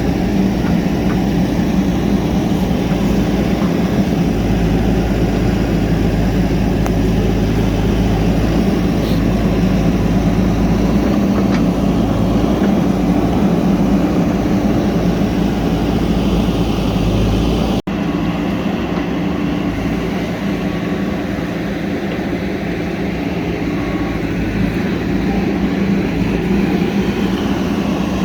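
JCB backhoe loader's diesel engine running steadily at working speed, with a brief break about eighteen seconds in.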